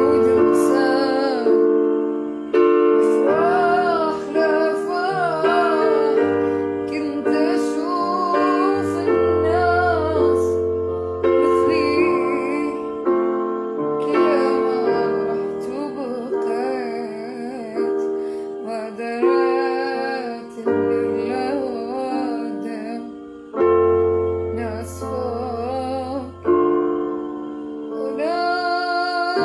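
Music: a woman singing a slow melody over piano or keyboard chords.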